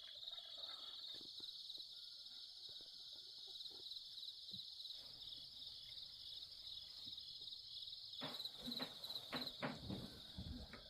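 Insects chirring steadily in a high, pulsing drone. A series of short knocks comes in near the end.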